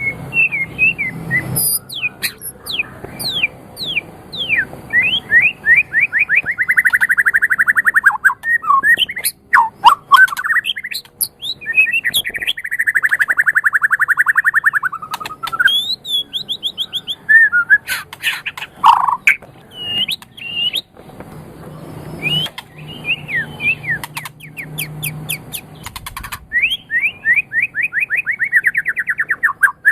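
White-rumped shama (murai batu) singing a loud, varied song of whistled glides and sharp notes. It breaks into fast rattling trills lasting a couple of seconds each, about a quarter of the way in, near the middle and again near the end.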